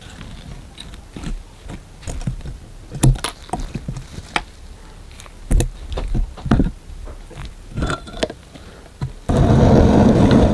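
Irregular knocks, clicks and short scrapes of work on metal. About nine seconds in, a loud, even rough noise starts suddenly.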